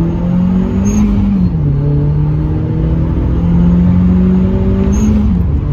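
The turbocharged 2.0-litre four-cylinder of a 2011 Hyundai Genesis Coupe 2.0T, heard from inside the cabin, accelerating hard through the gears. The engine note climbs, falls with a gear change about a second and a half in, climbs again through the next gear, and falls at another shift near the end. A brief high chirp comes just before each shift.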